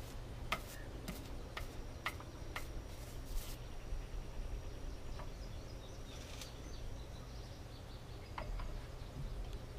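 Quiet outdoor background with a faint, steady, high-pitched insect drone. A row of light clicks comes about twice a second over the first few seconds, and a few more scattered clicks follow later.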